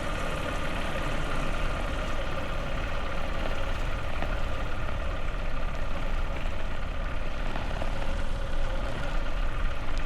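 Motorbike engine running steadily, with a continuous low rumble underneath.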